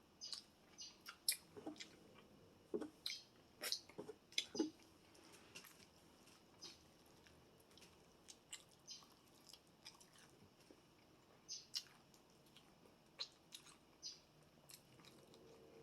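Close-miked chewing of fried chicken wings and french fries: short wet clicks and crunches of mouth sounds, coming thick and fast in the first five seconds and then more sparsely.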